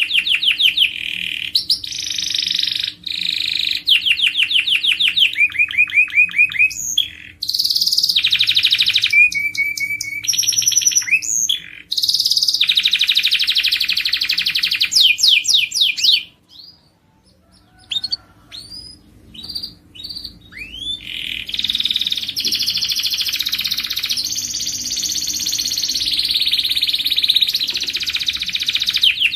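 Domestic canary singing: long runs of fast trills and rolling repeated notes, broken just past the middle by a few seconds of scattered short chirps before the song resumes.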